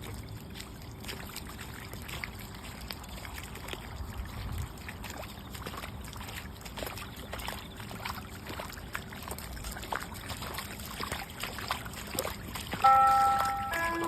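Water trickling and running, with many small ticks and splashes throughout. A few bright music notes come in near the end.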